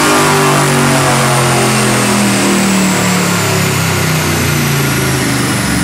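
Turbocharged Ford Coyote 5.0 V8 running on a chassis dyno. Its low engine note eases slowly down in pitch, with a thin high whine that also falls slowly.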